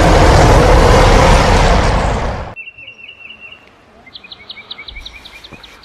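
A loud, even rushing noise that cuts off abruptly about two and a half seconds in, followed by birds chirping in quick runs of short repeated high notes.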